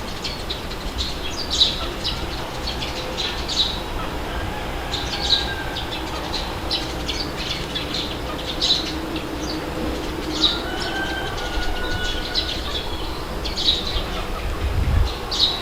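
Small birds chirping in short, sharp calls every second or so, over a steady low wind rumble.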